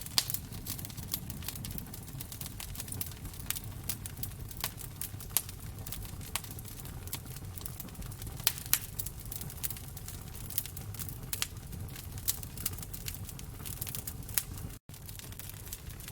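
Wood fire crackling in a fireplace: irregular sharp pops and snaps over a steady low rumble of the flames, with a split-second dropout near the end.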